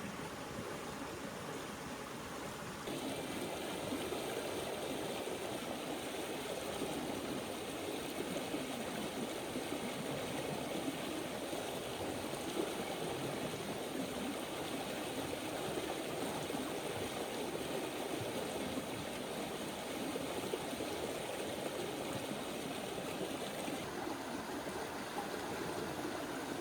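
A river flowing: steady rushing water, which gets louder about three seconds in.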